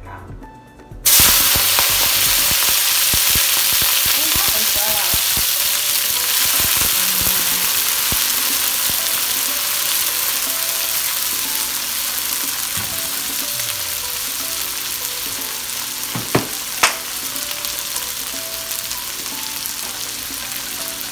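Peas and diced carrots hitting hot oil in a wok about a second in set off a loud, steady sizzle that slowly eases as they are stirred with a spatula. Two sharp clicks come about three-quarters of the way through.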